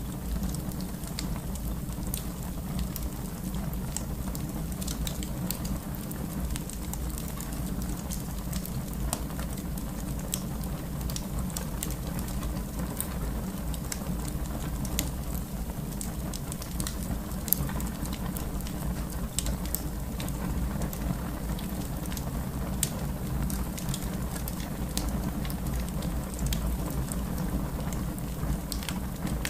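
Fire crackling in a fireplace: a steady low rumble with frequent sharp pops and snaps, one louder pop a little past halfway.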